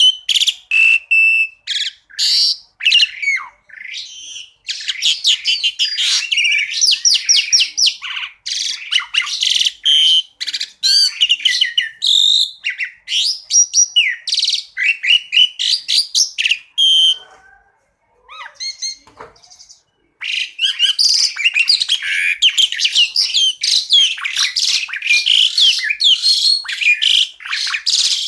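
Songbird singing a fast, loud run of varied chirps, trills and whistles, broken once past the middle by a pause of about two seconds with a few faint lower notes before the rapid song resumes.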